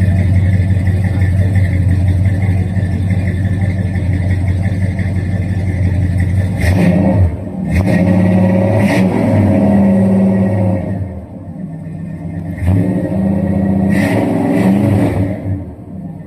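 1966 Chrysler New Yorker's 440 TNT V8 running through a Flowmaster exhaust: idling steadily, then revved twice, each rev held for a few seconds before dropping back to idle.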